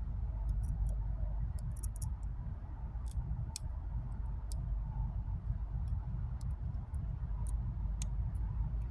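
Scattered faint sharp clicks at irregular intervals over a steady low rumble.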